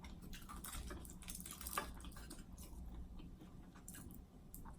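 Quiet chewing of soft, wet seafood buffalo dip, with scattered small wet clicks and smacks of the mouth.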